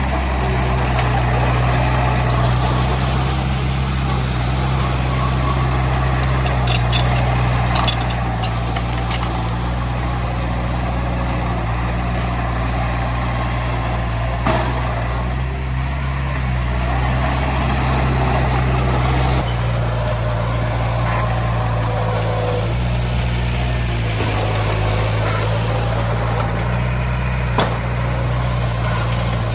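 Heavy diesel earthmoving machinery working, its engine running steadily and shifting in speed a few times in the second half, with a few sharp metallic clanks.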